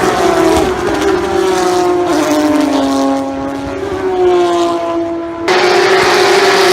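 Race car engines running at speed, their note dipping and rising as the cars lift and accelerate, with the sound changing abruptly about five and a half seconds in.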